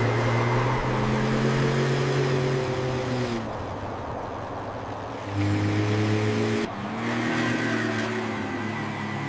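Cartoon car engines running, a steady pitched hum under a noisy rush. It drops away about three seconds in and returns about two seconds later.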